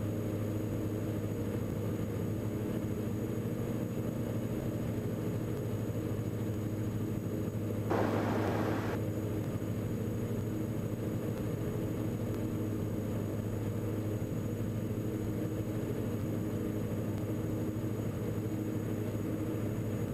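Steady drone of the Diamond DA42 NG's twin Austro turbo-diesel engines and propellers heard from the cockpit in a climb, with a brief hiss about eight seconds in.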